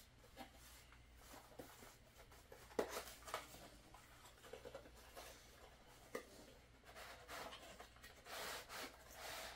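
Faint rustling and a few light clicks as packaging is handled while a small cardboard box of accessory parts is opened and its contents lifted out, with a soft scratchy rustle near the end.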